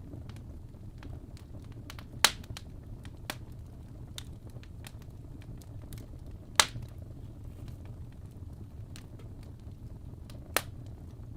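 Wood fire in a fireplace crackling: a steady low rumble with many small scattered crackles and three sharp pops, about two, six and a half and ten and a half seconds in.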